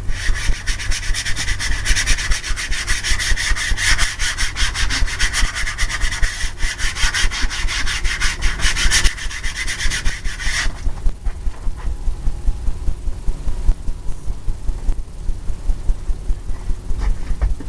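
Bristle paintbrush scrubbing paint medium onto a stretched canvas in rapid back-and-forth strokes, a dry scratchy rubbing that stops about two-thirds of the way through. A low steady hum runs underneath.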